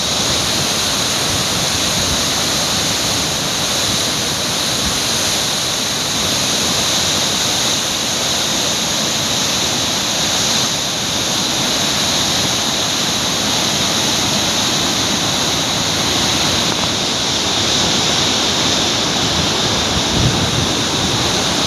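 Floodwater rushing out through the opened spillway gates of the Singur dam in a steady, loud roar: the gates are lifted to release a heavy flood inflow downstream.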